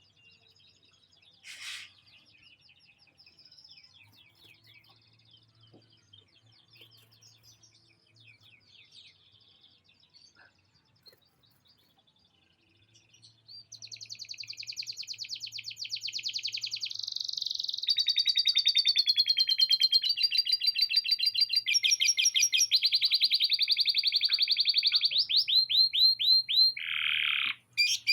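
Male canary singing: faint scattered chirps for about the first half, then a loud song of rapid trills and rolls that change phrase every second or two, with a few quick downward-sweeping notes near the end.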